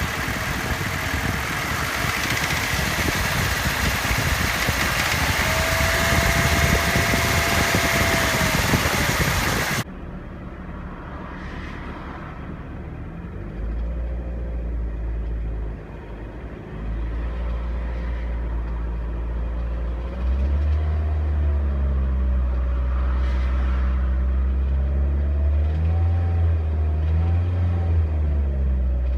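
Toyota Yaris 1NZ-FE inline-four engine running after a rebuild with forged internals, with the high-pitched metallic rattle from inside the engine that is loudest around 1800–2000 rpm. For the first ten seconds there is a steady rush with a steady high tone over it. Then the sound cuts abruptly, and the engine is heard on its own, its pitch rising and falling with the revs.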